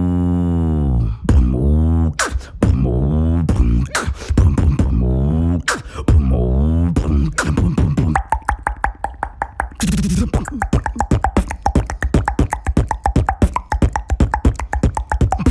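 Beatboxing: a low, droning vocal bass whose pitch swoops up and down, over sharp kick and snare hits made with the mouth. About halfway through it changes into a fast, dense run of clicking mouth percussion.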